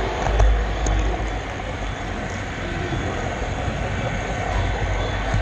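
Model railroad camera car rolling along the track, heard close up: a steady rumble of wheels on rail with a few light knocks, the strongest about half a second in.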